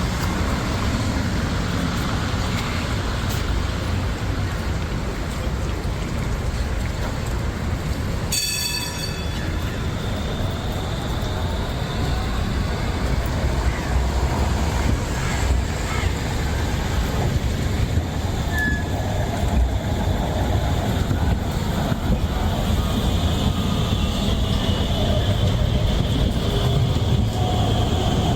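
City street ambience dominated by the steady low rumble of a tram running on its rails, with a thin high wheel squeal near the end. A short bright ring sounds about eight seconds in.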